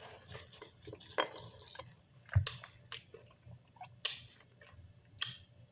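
Quiet eating sounds: soft chewing and mouth noises with about five scattered sharp clicks and taps.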